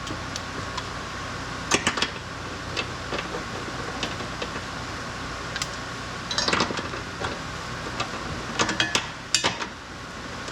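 Scattered metallic clinks and knocks of tools and parts being handled, in three short clusters, over a steady workshop hum.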